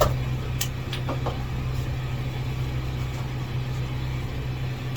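Steady low machine hum, engine-like and unchanging, with a few light clicks and knocks in the first second and a half.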